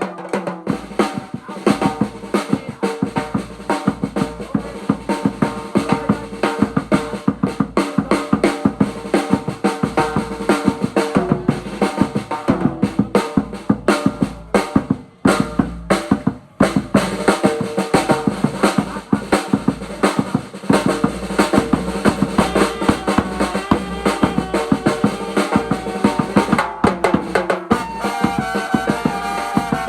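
Live band drum kit playing fast, dense snare and bass drum beats with rolls and rimshots, with a few held instrument notes underneath.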